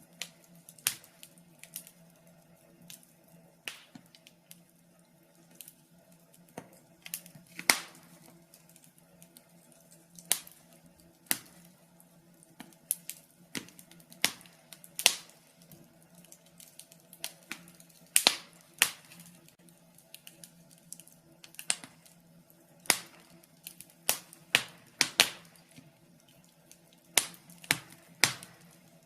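Wood fire in a fireplace crackling: irregular sharp pops and snaps, a few close together at times, over a faint steady low hum.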